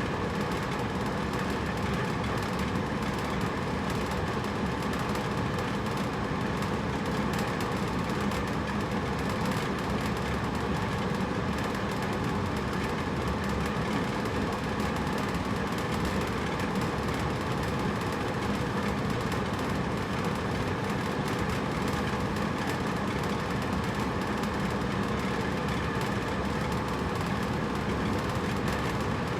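Hotel room air conditioner running steadily: an even rush of blown air with a low steady hum.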